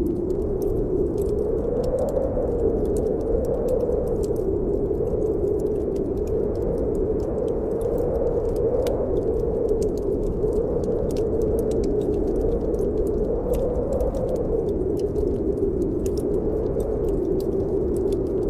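Blizzard wind howling steadily, swelling and easing every few seconds, with a wood fire crackling in a fireplace: irregular sharp pops and snaps over the wind.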